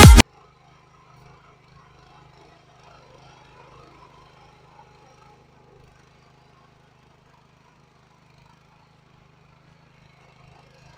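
Dance music cuts off just after the start, leaving a very faint steady low hum with faint scattered noise that dies away toward near silence in the second half.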